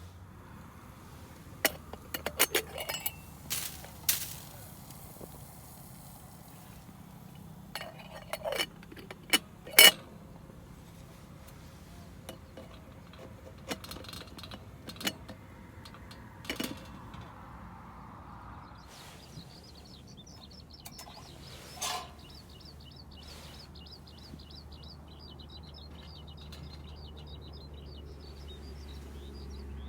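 Camp dishes and gear being handled, giving short clusters of clinks and knocks, the loudest a sharp knock about ten seconds in. From about two-thirds of the way through, a small bird chirps rapidly and repeatedly in the background.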